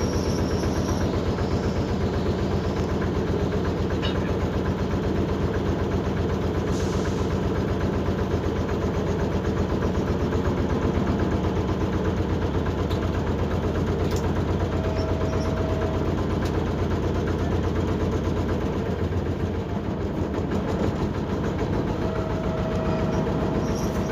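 Tour boat's engine running steadily with an even, fast low throb.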